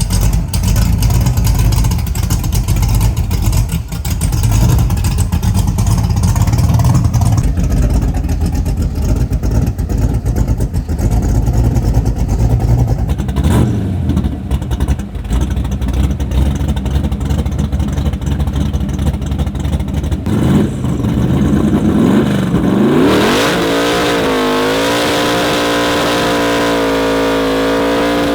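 Small-tire drag car's engine running with a rough low rumble, then revving up about three-quarters of the way through, the pitch rising and then holding steady at high speed.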